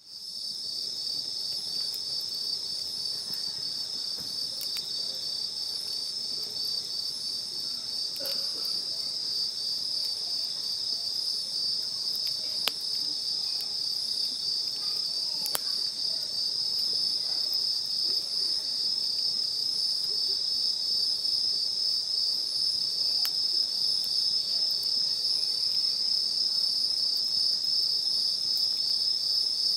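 Insect chorus: a steady, high, rapidly pulsing trill that grows slightly louder over the half minute, with a few isolated sharp clicks.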